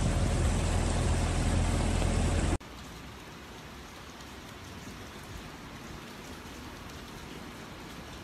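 Outdoor storm noise of heavy rain with a loud rushing roar and deep rumble on the microphone. About two and a half seconds in it cuts off abruptly to a much quieter, steady hiss of rain.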